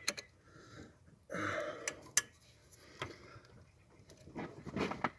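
A bolt being snugged down by hand with a wrench on the turbo's aluminum housing, heard as a few sharp metallic clicks of the tool, with a strained grunt of effort from the man tightening it.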